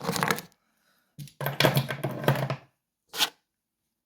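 Hands handling locks, scraping and rattling in a few short bursts, with one brief sharp clink about three seconds in.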